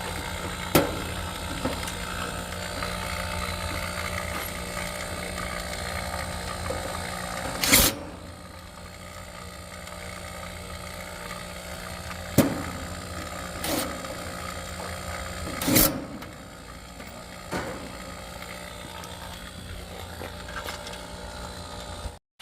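A steady mechanical drone, louder for the first eight seconds and quieter after, with about six sharp knocks spread through it, the loudest around eight and twelve seconds in.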